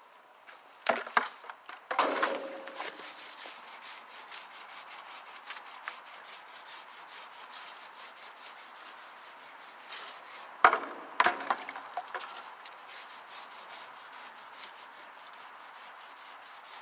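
A brush scrubbing a metal grill fire deflector in quick, rapid back-and-forth strokes, with a few sharp knocks at the start and again about two-thirds of the way through.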